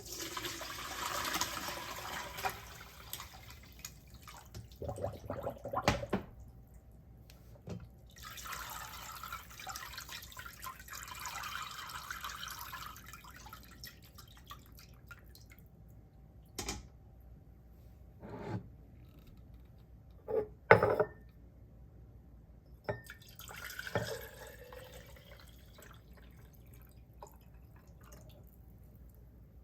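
Liquid running and splashing in three spells of a few seconds each, with scattered knocks and clinks of kitchenware between them.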